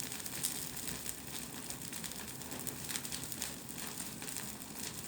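Bonfire burning well, crackling steadily with many small sharp pops.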